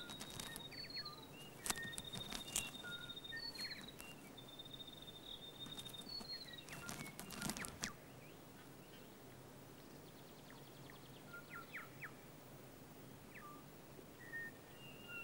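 Faint high bird whistles and short chirps over quiet outdoor ambience, with scattered light taps and clicks. The taps are heaviest in the first eight seconds, then sparse chirps only.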